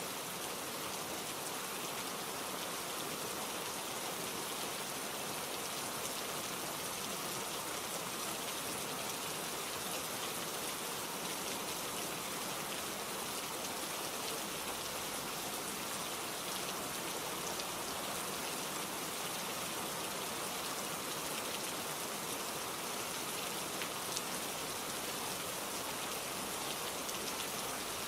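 Steady rain falling on a surface, an even hiss of drops with a few faint clicks.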